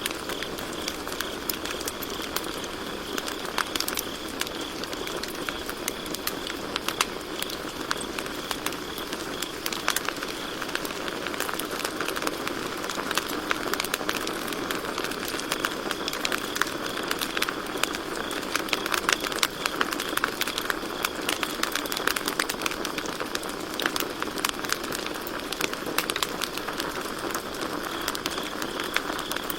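Campfire crackling, with frequent sharp pops and snaps of burning wood over a steady low hiss of the flames. Crickets trill in a steady high chirping band that fades in the middle stretch and grows stronger again near the end.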